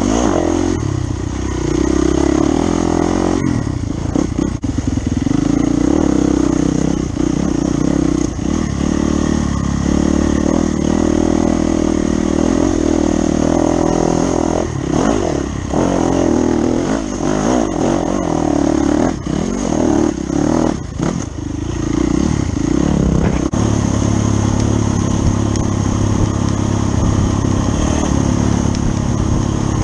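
Dirt bike engine under load on a rough trail, its revs rising and falling with the throttle. In the middle stretch the throttle is repeatedly opened and closed, and near the end it settles into a steadier pull.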